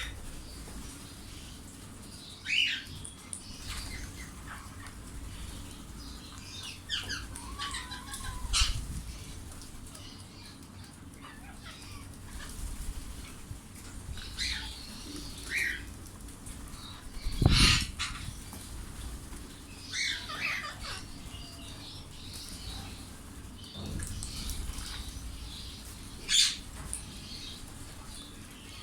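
Indian ringneck parakeets in an aviary, wings flapping with short calls scattered throughout. The loudest flurry comes about two-thirds of the way in.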